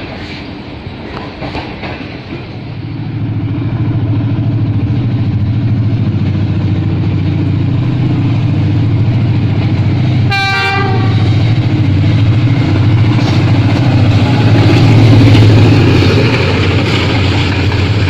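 Train running at speed: a steady low rumble of the wheels and locomotive that swells about three seconds in and stays loud, with a short horn blast about ten seconds in.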